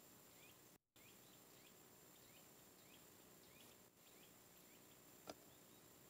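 Faint bird chirping: a run of short, rising chirps repeated every half second or so over quiet woodland ambience. One light knock about five seconds in.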